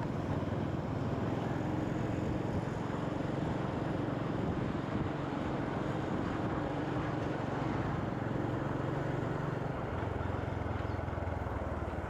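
Motorcycle engine running under steady wind and road noise while riding, its note shifting lower near the end.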